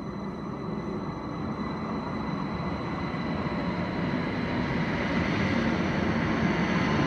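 SBB RABe 514 double-deck electric multiple unit approaching and running past along the platform track. Its wheel and running noise builds steadily as the carriages come alongside.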